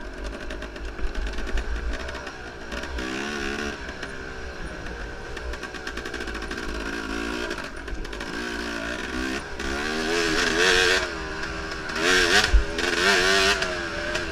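Enduro motorcycle engine racing off-road, its revs repeatedly climbing and dropping as the throttle is worked. It gets louder in bursts near the end.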